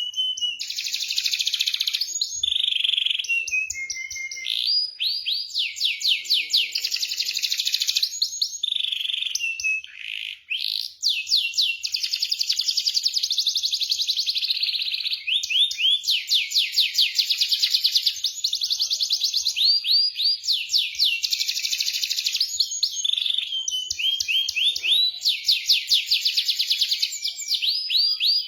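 Domestic canary singing continuously: long rolling trills of rapid repeated notes, broken by short gliding notes between phrases.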